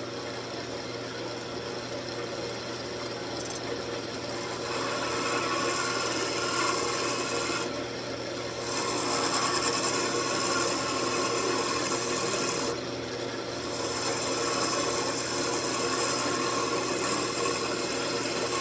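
Wood lathe running with a steady motor hum while a hook tool cuts detail into the spinning wooden base, a continuous scraping rasp. The cut gets louder a few seconds in and breaks off briefly twice as the tool is eased away and brought back.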